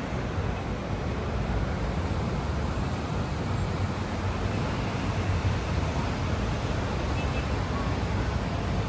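Steady outdoor background noise with a strong low rumble and no distinct events.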